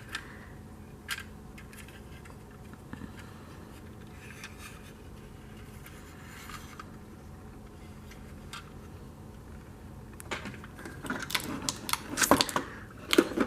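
Plastic toy fire trucks being handled: a few scattered clicks and light knocks over a faint steady hum, then a busier clatter of clicks near the end.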